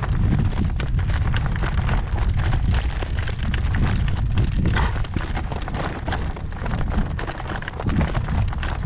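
A horse trotting in harness, its hoofbeats clopping throughout, under a heavy low rumble of strong wind buffeting the microphone.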